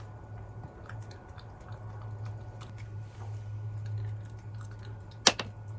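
A Lhasa Apso chewing food softened with water from a hand, with small wet clicks. A steady low hum runs underneath, and there is one sharp click about five seconds in.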